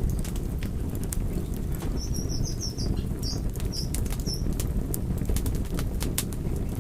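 Fire crackling steadily: frequent sharp pops and snaps over a low rumble. A few short, high-pitched chirps come from about two to four seconds in.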